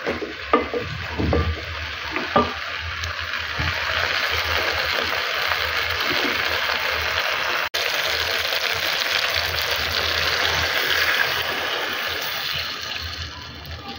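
A wooden spoon knocking and scraping against an aluminium pot as fried fish heads are stirred, then a steady sizzling of the fish frying in the hot pot. Near the end water is poured from a jug into the pot.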